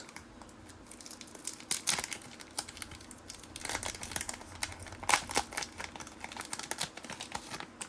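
Trading cards being handled: irregular rustling and crinkling with small clicks as cards and packaging are shuffled and moved, coming in clusters a few seconds apart.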